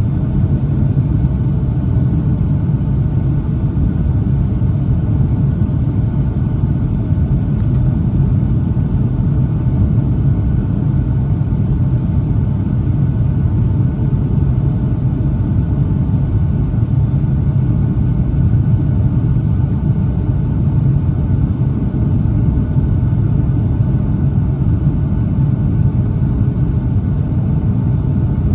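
Steady low rumble of a Boeing 757-200 heard from inside the cabin: engine and airflow noise with faint steady tones above it, unchanging throughout.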